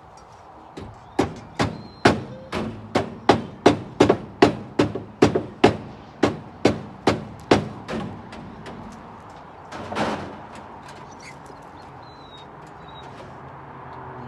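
Hammer driving a nail into wood: about seventeen evenly paced blows, two to three a second, then the hammering stops. A short scraping noise follows about ten seconds in.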